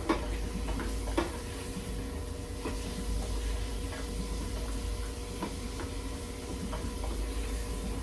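Light clinks and knocks of kitchen utensils against cookware, scattered a second or so apart, over a steady hum.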